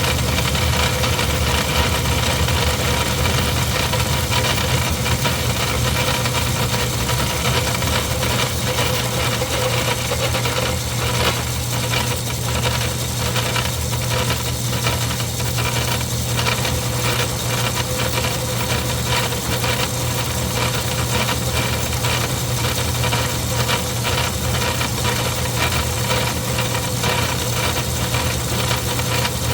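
Craftsman 109 hobby metal lathe running steadily under power with a constant hum while it takes a cut. Faint irregular ticking comes in for several seconds midway.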